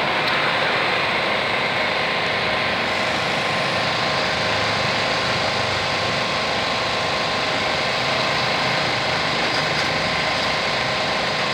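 An engine running steadily, an even mechanical hum with a thin steady tone in it.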